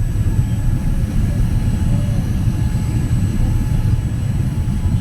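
Steady low drone of cabin noise inside a Boeing 787-10 airliner during its descent.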